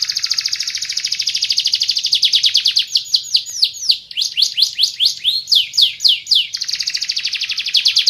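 Domestic canary of the Van Hesterling strain singing: fast, rolling trills of rapidly repeated high notes, broken in the middle by a slower run of separate downward-sweeping notes, then back into a fast trill near the end.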